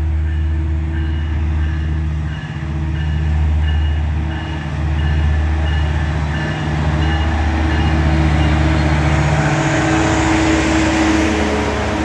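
Metrolink commuter train arriving: the diesel locomotive's engine drones low and steady while a bell dings rapidly, about three times a second, stopping about seven seconds in. Then the hiss and rumble of the coaches rolling past on the rails builds as the train slows into the platform.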